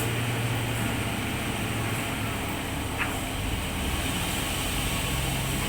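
Sawmill machine running steadily: an even motor hum under a constant hiss, with a faint click about three seconds in.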